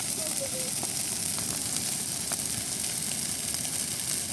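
Large bonfire of discarded Christmas trees burning with a steady hiss and scattered sharp crackles and pops. Faint voices are heard near the start.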